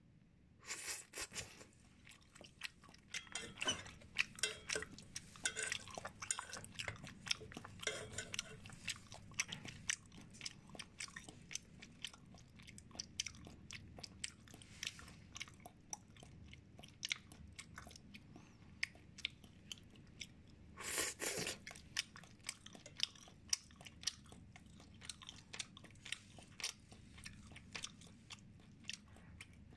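Close-miked eating of steamed chicken: wet chewing, biting and mouth clicks with crunches, in an irregular run of small crackles. Two louder bursts, about a second in and about 21 seconds in.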